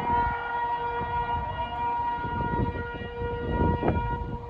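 Outdoor tsunami warning siren sounding a steady, multi-tone wail after winding up in pitch, over a low rumbling background noise.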